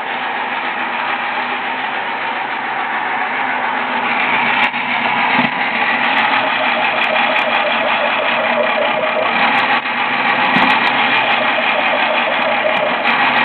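A small 12-volt drill press motor running steadily, growing louder about four seconds in, with scattered sharp clicks.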